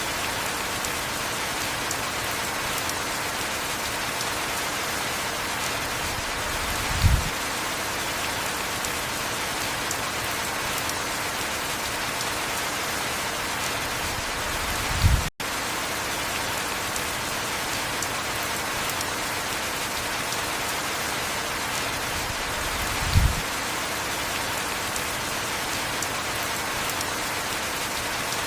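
Heavy rain falling steadily, a dense even hiss. Three short low thumps come about eight seconds apart, and the sound cuts out for an instant near the middle.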